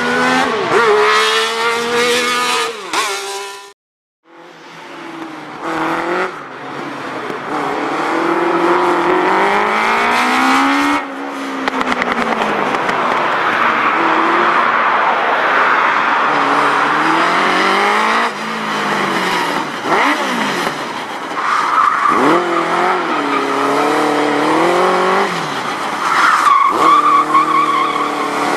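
Kawasaki GPZ1100 inline-four motorcycle engine in a small single-seat racing car, revving up and down again and again as it is driven hard through a gymkhana course, with tyres squealing at times. The sound cuts out briefly about four seconds in.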